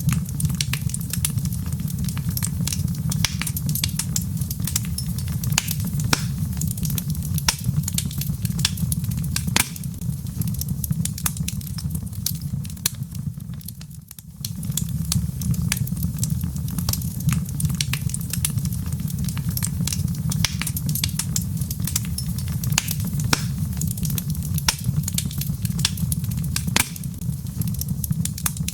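Wood fire crackling in a fireplace: many sharp pops and snaps of burning logs over a steady low rumble. The sound dips briefly about halfway through and then comes back.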